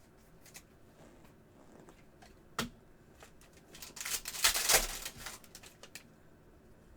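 Trading cards being handled and flicked through by hand: a sharp click, then about a second of quick crackly rustling and flicking.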